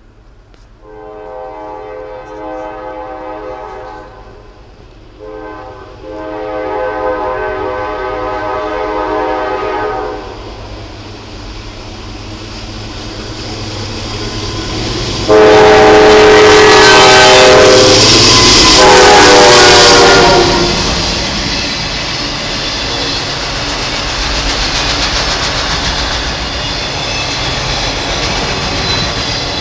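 A Norfolk Southern GE Dash 9 locomotive sounds its air horn in long blasts as it approaches. A much louder blast lasting about five seconds comes as it passes close by. Then the rumble and clickety-clack of autorack freight cars rolling past on the rails.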